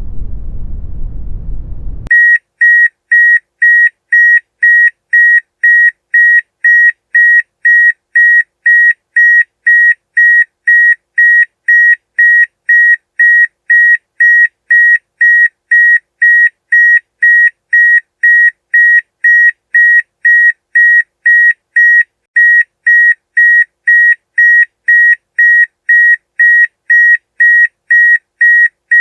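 Brown noise, a steady low-heavy hiss, cuts off about two seconds in and is replaced by a blaring electronic alarm. The alarm is a loud, high-pitched beep repeating evenly about twice a second.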